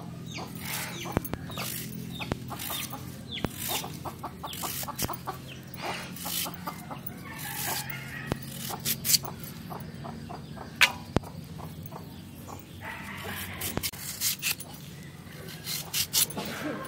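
A knife cutting peeled wild yam (forest potato), with a series of short sharp cuts and knocks, while chickens cluck in the background.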